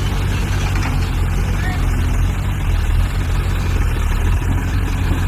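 Tractor diesel engine running steadily at a constant speed, without revving.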